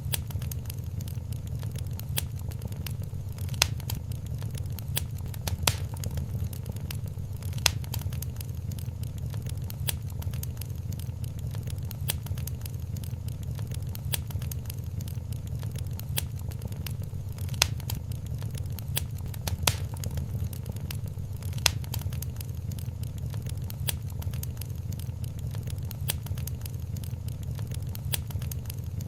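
Wood fire crackling in a fireplace: a dense stream of small crackles over a steady low rumble, with a sharper pop every couple of seconds.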